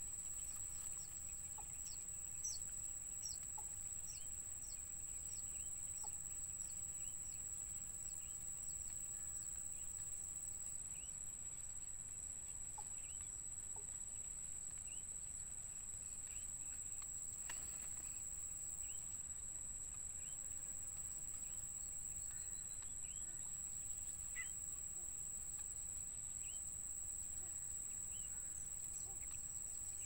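Short, high, falling bird peeps repeating about once a second over a steady high-pitched insect drone.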